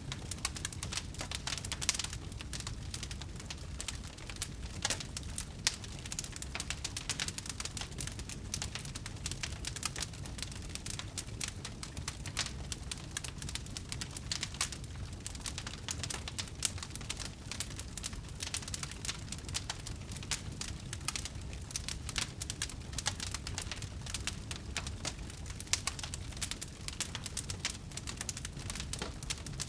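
Wood fire crackling in a fireplace: many sharp, irregular pops and snaps over a low steady rumble of burning.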